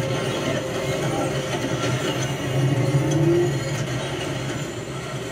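Sound-designed heavy train running: a steady low rumble, swelling louder about three seconds in with a short rising whine.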